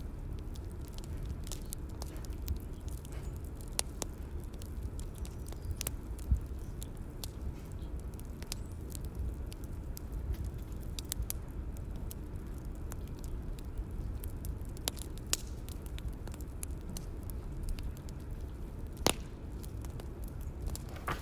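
Bonfire crackling: a steady low rumble of burning with frequent small snaps and a few louder pops, one about six seconds in and a sharp one near the end.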